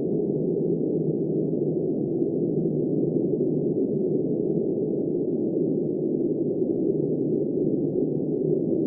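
Steady wind noise of a snowstorm: a low, muffled rush with no high end, even in level throughout, with no gusts or breaks.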